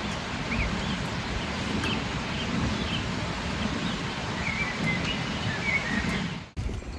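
Wind blowing across the microphone outdoors, with a few short bird chirps scattered through it; the sound cuts off about six and a half seconds in.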